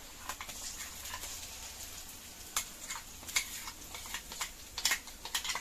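Chopped shallots frying in oil in a pan with a faint, steady sizzle, while a spoon stirs them and clicks and scrapes against the pan now and then.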